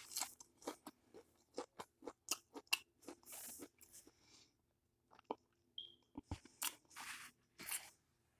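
Close-miked chewing of tortilla chips: faint, irregular crisp crunches with short pauses between bites.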